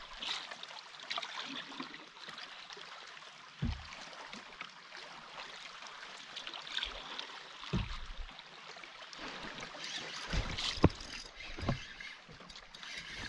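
Water lapping and trickling against a canoe, with several low knocks on the hull and one sharper click near the end.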